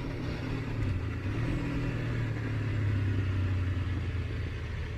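Motorcycle engine heard on board while riding, pulling steadily. The pitch rises about a second and a half in, then holds.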